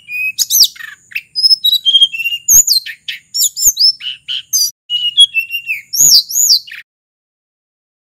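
Hill blue flycatcher singing a fast, varied run of high clear whistles, its notes sliding up and down, until the song stops about seven seconds in.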